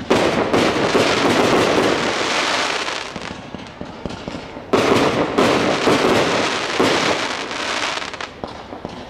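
Display fireworks bursting: two loud onsets about four and a half seconds apart, each followed by dense crackling that fades over a few seconds.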